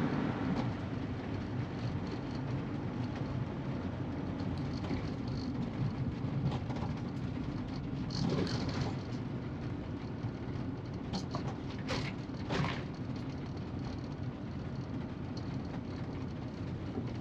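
Car driving, with steady low road and engine rumble heard from inside the cabin and a few scattered sharp clicks and rattles partway through.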